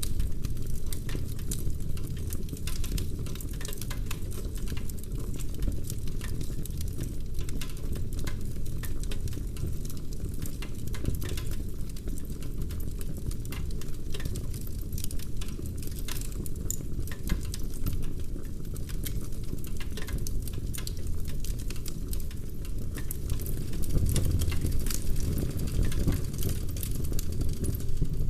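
Wood fire burning in a fireplace: dense, irregular crackling and small pops of burning logs over a steady low rumble of flame.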